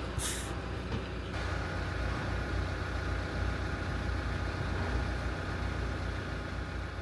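An engine running steadily with a low rumble; about a second in, a steady higher hum joins it.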